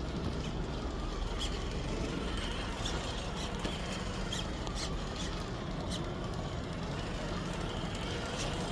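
Steady rumble of distant highway traffic, with short high squeaks scattered through it.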